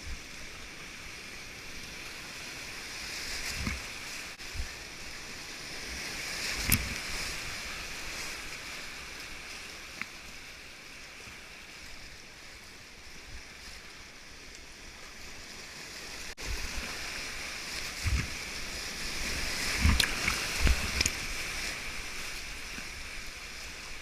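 White-water rapids rushing in a steady hiss, with scattered knocks and thumps, the loudest about seven seconds in and a cluster near twenty seconds in.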